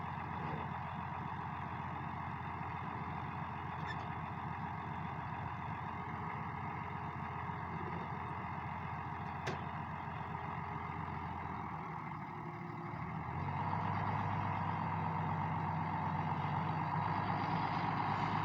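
International 886 tractor engine running steadily under load, growing louder about two-thirds of the way in.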